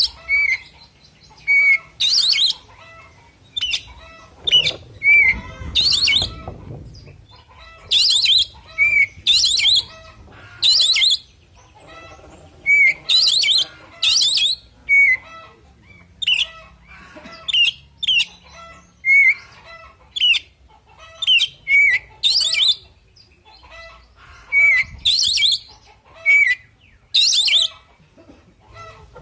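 Male Oriental magpie-robin (kacer) singing its loud fighting song: short, varied whistled phrases repeated every second or two, with quieter notes in between.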